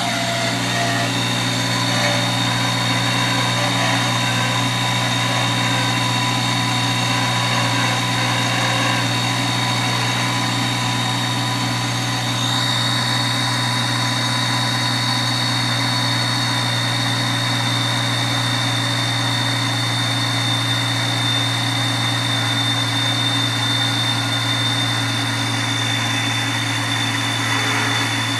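Comptech-supercharged Honda S2000 four-cylinder idling cold just after start-up: a steady low drone with a high whine over it. The uploader takes the odd lower-pitched start-up noise, which fades once the engine warms, for the first sign of the belt tensioner pulley going bad; it seized a week later.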